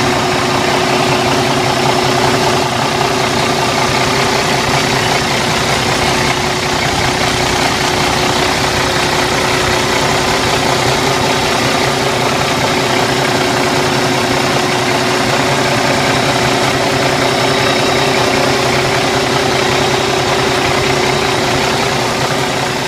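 Cummins ISX 500 horsepower diesel engine of a Kenworth T660 highway tractor idling steadily.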